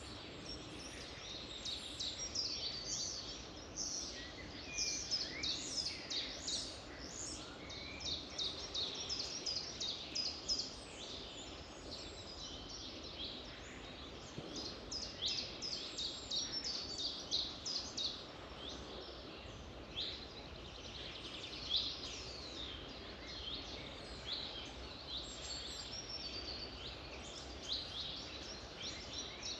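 Dense chorus of songbirds singing, many quick high chirps and short downward-sliding notes overlapping without pause, over a steady background hiss.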